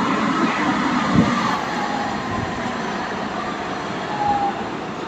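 Ottawa metro rail train pulling into the station and slowing, its running noise gradually fading, with a faint whine and a single knock about a second in.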